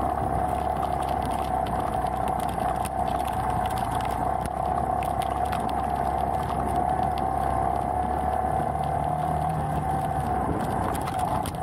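Beta Alp trail bike's single-cylinder four-stroke engine running steadily under load up a steep, stony climb, with a constant high hum over the engine note and scattered small knocks from the rough track.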